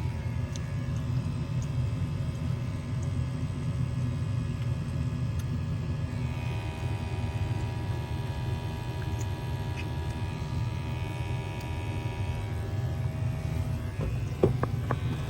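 American Standard gas furnace running with a steady low rumble. A few sharp clicks and taps come near the end.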